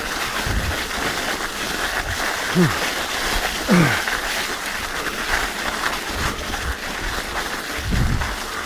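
Mountain bike on studded tyres rolling and rattling over an icy, rocky trail, a steady noisy clatter, with the rider's short effortful grunts, two falling ones about two and a half and four seconds in.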